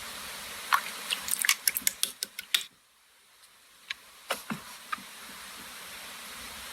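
Slime being pressed and played with by hand: a quick run of small sticky clicks and pops, broken by a short cut to silence about three seconds in, then a few scattered pops.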